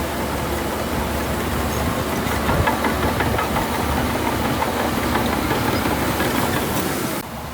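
Heavy diesel engine of earthmoving machinery running steadily, with scattered clatter about two to four seconds in. The sound drops abruptly near the end.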